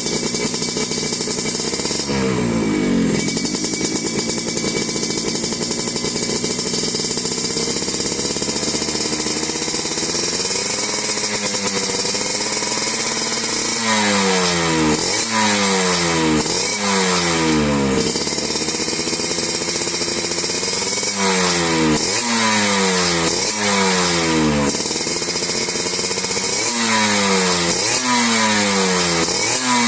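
Yamaha RX-series two-stroke motorcycle engine running through a stainless expansion-chamber racing exhaust. It idles steadily between throttle blips: one rev a couple of seconds in, then short runs of quick revs in the second half, each falling straight back in pitch.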